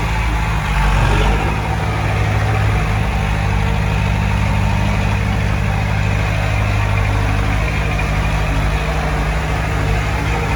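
Heavy diesel earthmoving machinery running steadily, its engine briefly louder about a second in.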